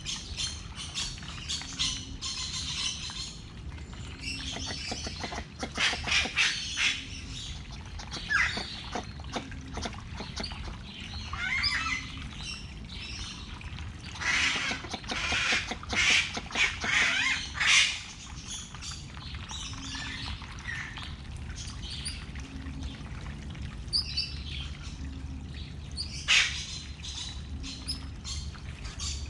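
Birds chirping and squawking in irregular short bursts, over a steady low hum.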